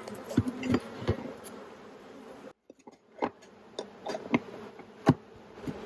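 Honeybees buzzing around an opened hive, stirred up after an inspection. The buzzing comes with a series of sharp knocks, the loudest about five seconds in. The sound cuts out briefly about halfway.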